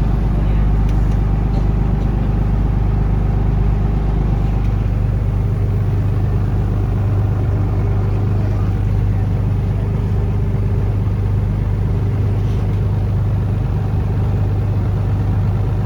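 Taxi boat's engine running steadily at cruising speed, a constant low drone heard on board.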